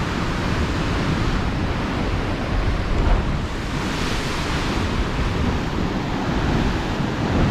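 Ocean surf washing and surging into a rocky coastal pool, a steady rush of water that swells slightly about halfway through, with wind buffeting the microphone.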